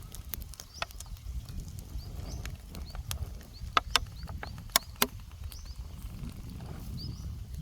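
Scattered sharp clicks and knocks, the loudest few a little after the middle, over a low steady rumble. Faint short chirps are heard high above.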